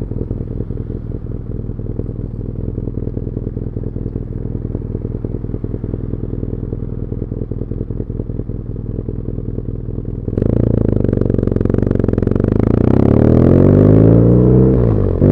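BMW R nineT's 1170 cc air/oil-cooled boxer twin through its stock muffler, idling steadily at a standstill. About ten seconds in it gets suddenly louder as the bike pulls away, the revs climbing for a few seconds, then dipping briefly near the end.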